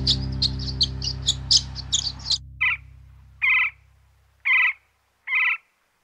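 Rapid high bird chirping, about five chirps a second, over background music that fades away, then four short, identical calls about a second apart.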